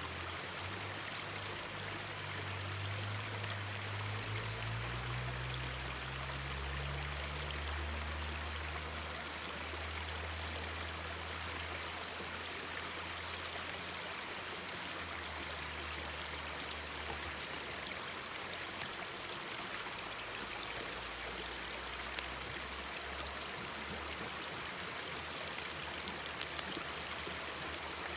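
Mountain stream babbling steadily over rocks. A low hum runs under it through the first half and fades out. A few sharp pops from the bonfire come near the end.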